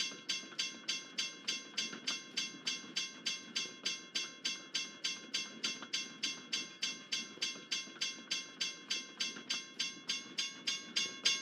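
Railroad crossing bell ringing steadily, about three strikes a second, over the low rumble of a passing train.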